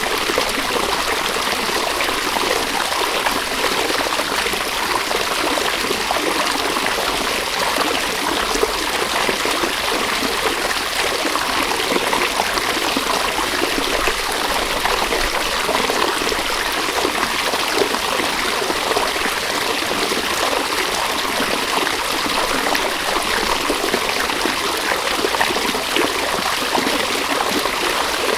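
A river flowing steadily over rocks, a continuous rushing and trickling of water.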